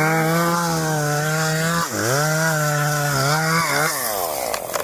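Two-stroke chainsaw running at high revs, cutting wood. Its pitch dips sharply about two seconds in and recovers, then falls away near the end as the throttle is released.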